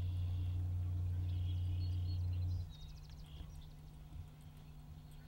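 Birds singing and calling in short chirps, with a quick trill past the middle, over a low steady hum that drops away sharply about two and a half seconds in.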